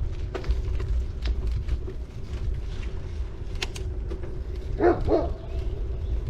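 City bike riding along, its tyres rolling with a steady low rumble and light clicks and rattles from the bike. About five seconds in come two short sharp calls, close together, that stand out above the riding noise.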